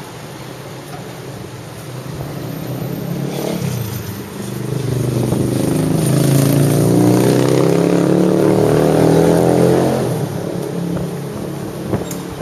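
Road vehicle engine accelerating over street traffic noise. It gets louder and climbs in pitch from about four seconds in, then eases off near the end.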